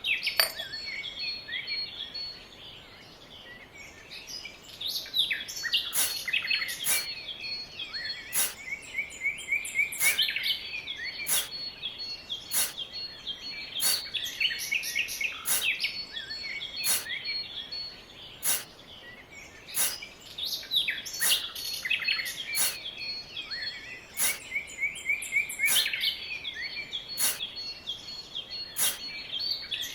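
Small birds chirping and twittering. From about six seconds in, a sharp click repeats at an even beat of roughly one every second and a half.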